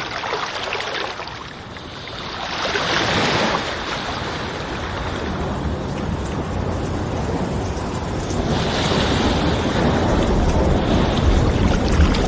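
Stormy sea and wind: waves surging in two big swells with a low rumble building toward the end.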